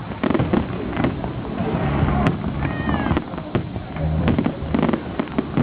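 Fireworks going off in quick succession: a string of sharp bangs and crackles over a low rumble.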